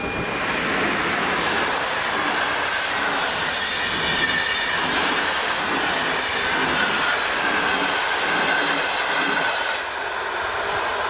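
PKP Intercity passenger train passing over a level crossing: a steady loud rush of wheels on rail with a faint high whine. It eases off about ten seconds in as the last coach clears the crossing.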